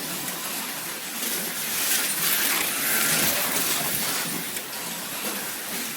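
Slot cars lapping a wood routed track: a steady high hiss of their small electric motors, gears and tyres, swelling and easing as the cars come and go.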